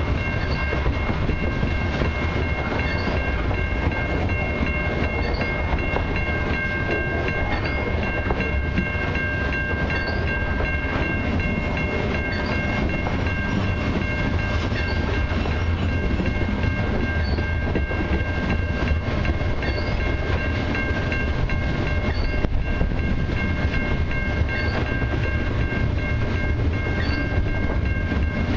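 Long freight train of covered hopper cars rolling steadily past: a continuous rumble of wheels on rail, with a steady high-pitched ringing tone held over it.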